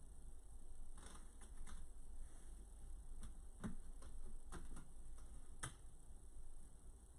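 Faint, irregularly spaced light clicks and taps, about eight in all with the sharpest a little past halfway, over a steady low hum.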